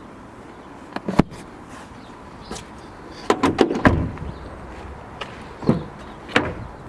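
Plastic clicks and knocks from a car's interior fittings being handled, most likely the Peugeot 5008's seat-back picnic tables, with a quick run of clicks ending in a heavier thud about four seconds in and two more knocks near the end.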